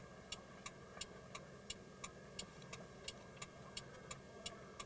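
A vehicle's turn-signal flasher ticking evenly, about three ticks a second, inside the cab over a faint low engine hum.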